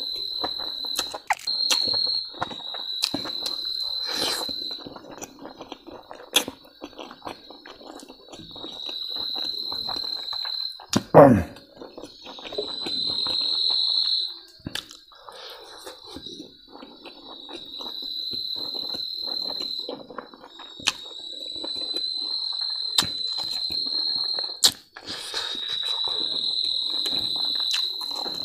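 Person eating noisily, with many small chewing and smacking clicks. A cricket trills steadily in the background in long stretches broken by short pauses. About eleven seconds in, one brief loud sound drops sharply in pitch.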